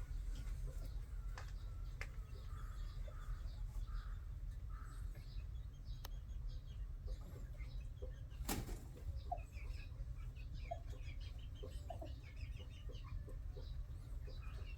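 Several birds making soft clucks and short chirps as they settle for the night, with one sharp crack about eight and a half seconds in, over a steady low rumble.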